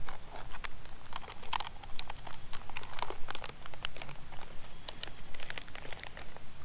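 Trail mix snack packaging crinkling and rustling as it is handled, an irregular run of sharp crackles.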